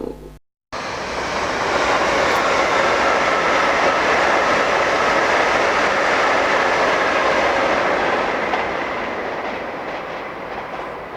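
A train running past on the line, a loud steady rumble of wheels on rail that fades over the last few seconds.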